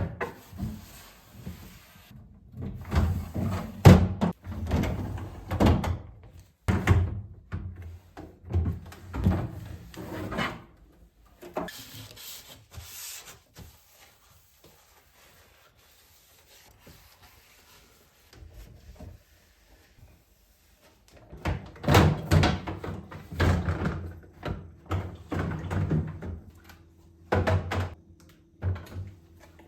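Kitchen containers and fittings being handled, set down and slid about: intermittent knocks, clatter and rubbing. The handling pauses for several seconds in the middle, then picks up again.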